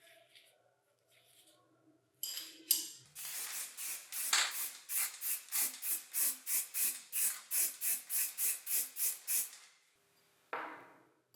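Rhythmic scraping strokes, about three to four a second, which start about two seconds in and stop near ten seconds, like a hand tool worked back and forth over a workpiece. A short duller sound follows near the end.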